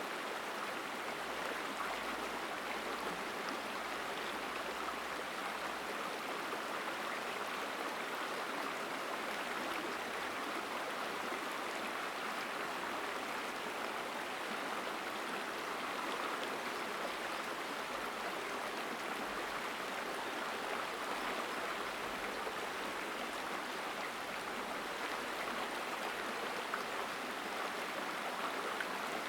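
Mountain stream flowing strongly through a forest, its water rushing over rocks in a steady, unbroken wash.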